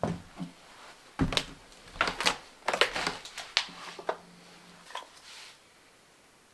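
A quick run of sharp knocks and clatters, as of hard objects being handled or set down, bunched in the first few seconds, with a couple of softer knocks after.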